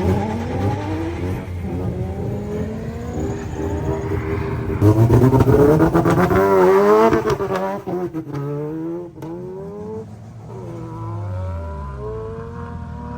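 Drift car's engine revving up and down through a slide, the revs rising and falling again and again. The revs are highest and loudest about five to seven seconds in, then drop lower near the end.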